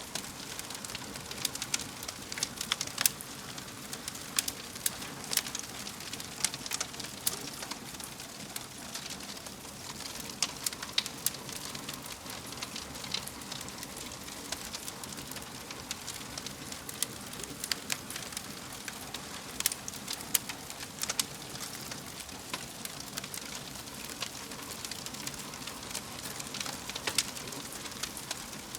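Wood fire in a fireplace crackling, with frequent sharp, irregular pops over a steady hiss.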